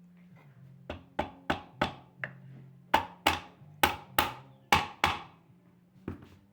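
Hammer tapping on an old Brastemp washing machine's gearbox housing, about a dozen sharp knocks in quick succession, to ease it down into place.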